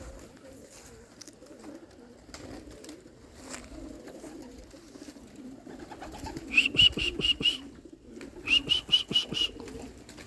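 Domestic racing pigeons cooing steadily at the loft. Partway through, two quick runs of about six high, sharp call notes cut in, each lasting about a second.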